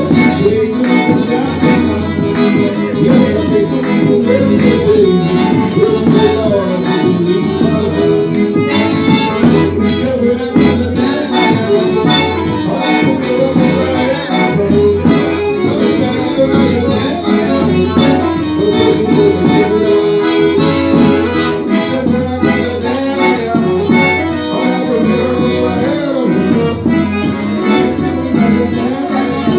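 Forró music: an accordion plays the melody over a steady low drum beat and fast, bright high percussion.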